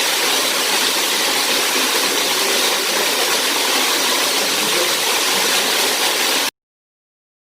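Waterfall pouring into a pool, a steady rush of water that cuts off suddenly about six and a half seconds in.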